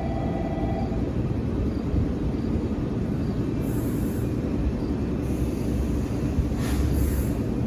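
JR 415 series electric train with a steady low rumble, broken in the second half by a few short high hisses. A thin steady tone from the start stops about a second in.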